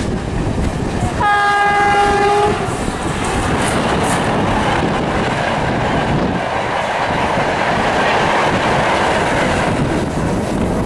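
A train horn sounds once, about a second in, for about a second and a half. Then comes the steady rumble and clickety-clack of an express train's coaches passing close alongside, heard from aboard a moving EMU local train.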